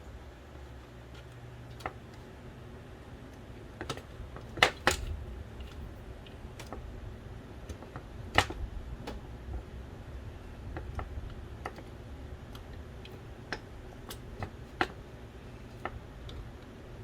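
Irregular clicks and taps of small plastic and metal parts being handled as a Philips DVD drive from an original Xbox is taken apart. A loud pair of clicks comes about five seconds in and another sharp one past eight seconds, over a low steady hum.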